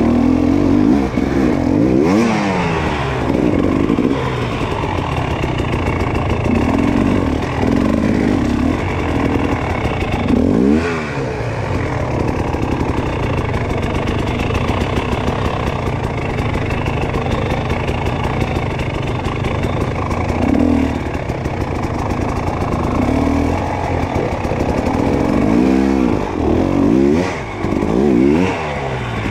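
Dirt bike engine running hard on a rough enduro trail, revving up and down repeatedly in quick sharp bursts, most busily near the start, in the middle and toward the end.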